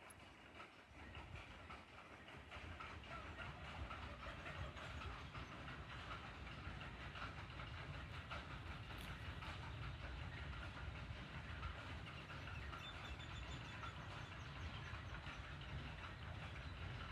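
Water streaming and splashing onto plant leaves: a steady, dense patter.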